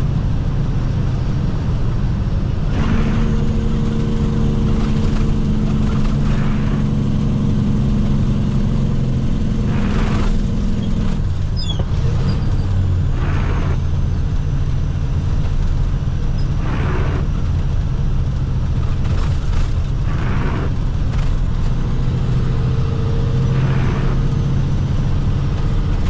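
Water truck's diesel engine running under way, heard from inside the cab, a steady low drone with road noise. A short swish comes every couple of seconds.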